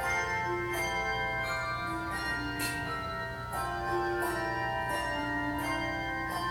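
Handbell choir playing a tune: struck bells ring on and overlap, with a new note or chord about every second.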